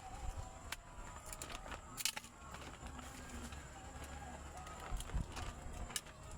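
Birds calling in the background, with scattered sharp clicks and knocks throughout.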